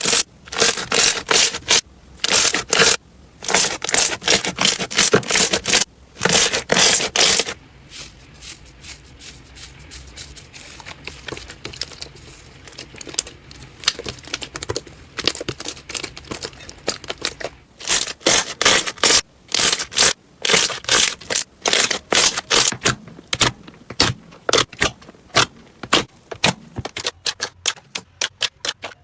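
Slime being squeezed and pressed by hand, making rapid trains of crackling clicks and pops. The clicking is loud for the first seven seconds or so, softer for about ten seconds, then dense again, quickening near the end.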